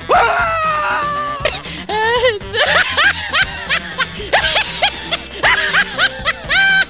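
A high-pitched cartoon voice over background music: a long wavering call that slides down over the first second and a half, then a quick run of short rising-and-falling notes.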